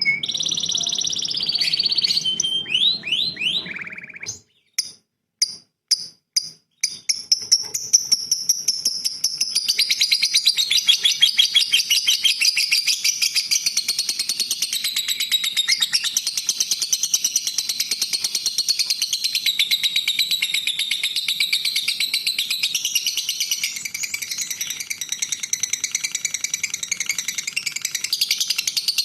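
Songbird singing: a short warbled phrase, then a break with a few sharp, separate notes about four to seven seconds in. After that comes a long, fast, continuous rolling trill of rapidly repeated high notes.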